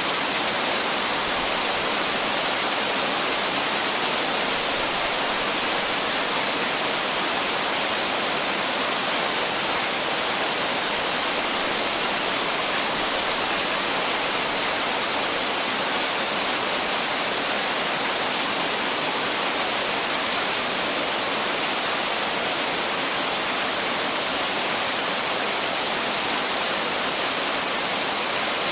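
Waterfall rushing steadily: a dense, even hiss of falling water with no change in loudness.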